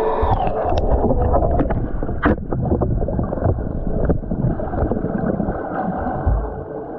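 Pool water churned by a swimmer's strokes, heard close up, with bubbling and a run of sharp splashes in the first few seconds.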